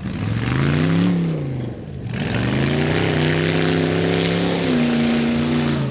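Rock bouncer buggy's engine revving hard twice: a short rise and fall, then a longer climb that is held near the top before easing down near the end.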